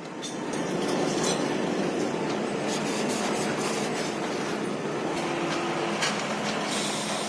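Steady mechanical din of leaf-spring factory machinery, with a low hum and scattered faint metallic clinks.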